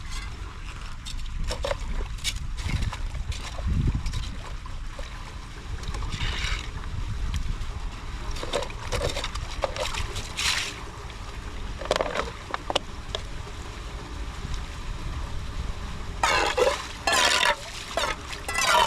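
Floodwater splashing and gurgling as it drains into an unclogged street drain, with scattered short splashes and a steady low rumble of wind on the microphone.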